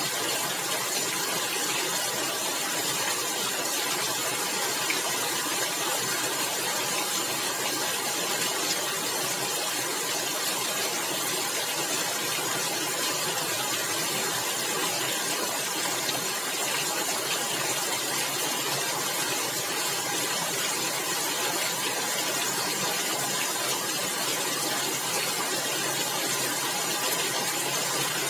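Rain falling steadily on a tiled roof: an even, unbroken hiss with no let-up.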